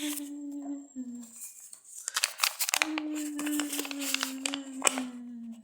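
A drawn-out low creaking squeak, made on purpose, over crackling and rustling. One squeak stops about a second in; a second starts near the three-second mark and sinks slowly in pitch for almost three seconds.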